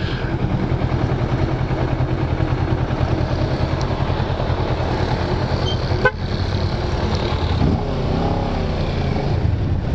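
Motorcycle engine running steadily at cruising speed, heard from the rider's helmet camera with wind rush over the microphone. A brief wavering tone comes in about eight seconds in.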